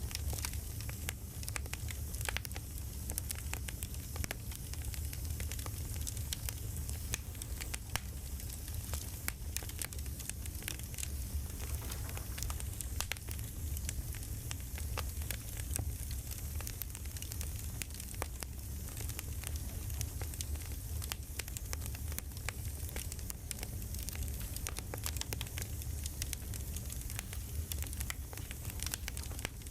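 Campfire crackling: a steady low rumble with frequent short pops and snaps.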